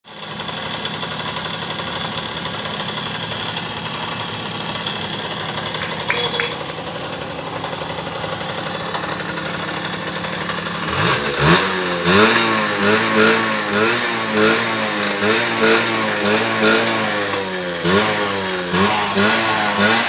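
Suzuki engine running again after a top overhaul and tune-up, idling steadily at first. From about eleven seconds in it is revved in quick repeated blips, each rising and falling, about three every two seconds.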